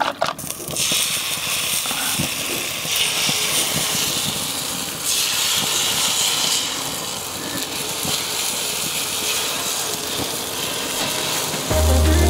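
Egg, milk and cheese mixture sizzling as it is poured onto a hot griddle plate on a gas grill, a steady hiss that swells in patches. Music starts near the end.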